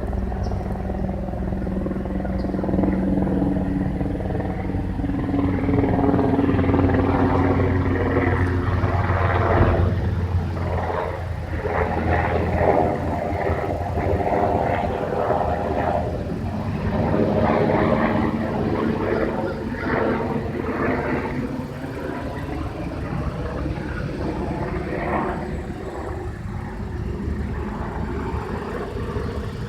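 An aircraft engine drones overhead, its tones slowly shifting in pitch. It is loudest in the middle and eases off toward the end.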